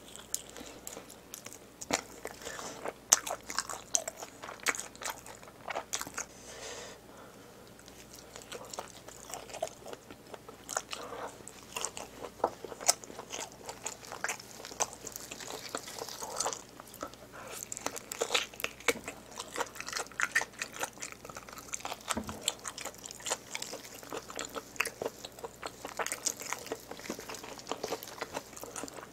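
Close-miked chewing and biting on spicy braised pig's trotters (jokbal), the skin and cartilage gnawed off the bone, full of sharp clicking mouth sounds. It eases off for a couple of seconds about seven seconds in.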